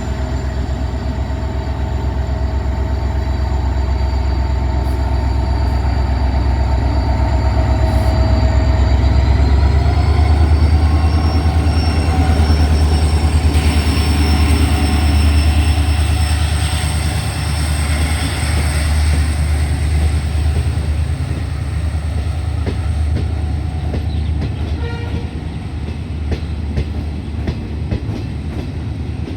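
A train running past at close range: a heavy rumble and rapid clatter of wheels over the rails, with steady high-pitched wheel squeal from the curve that rises slightly in pitch about ten seconds in.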